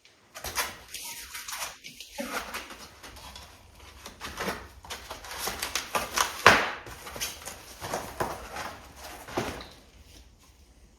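Packaging and parts being handled during an unboxing: a run of short rustles, crackles and knocks, the loudest knock about six and a half seconds in, thinning out near the end.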